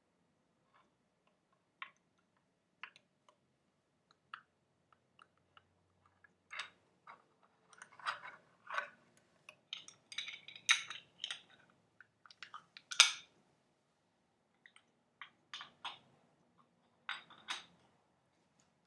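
Light, irregular tapping and clinking on hard objects, a few scattered taps at first, then a busier run of taps with one sharp clink standing out about two-thirds of the way in.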